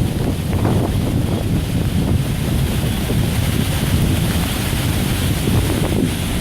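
Hurricane-force wind buffeting the microphone: a loud, steady rush with a heavy rumbling low end.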